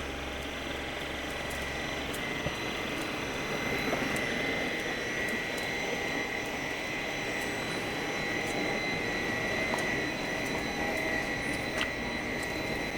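Steady machinery noise of a factory floor, with a steady high whine running through it and a low hum that stops about two seconds in.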